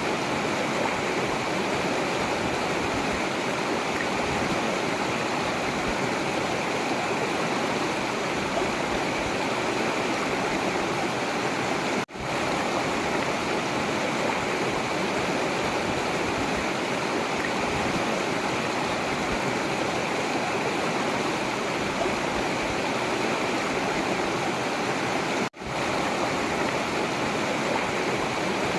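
Forest river water rushing, a steady even flow, with the sound briefly cutting out twice.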